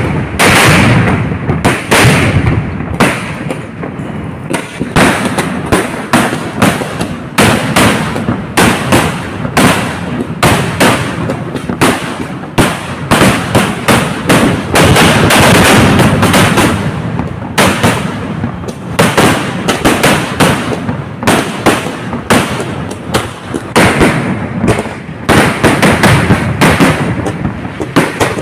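Fireworks barrage: loud bangs and cracks going off several a second, overlapping into an unbroken volley.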